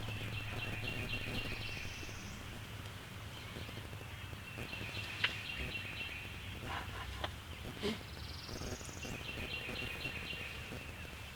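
A small songbird singing a repeated trilled song: three phrases, each ending in a quick rising slur, with a few faint clicks between them.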